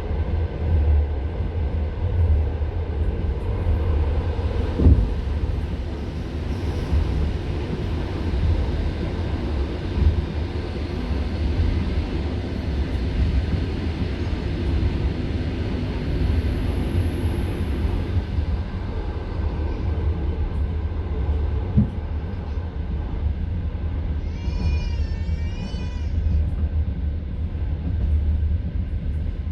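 A passenger train carriage's steady rumble as it runs along the track, with the wheels knocking sharply twice, once early and once past the middle. A brief high warbling sound comes near the end.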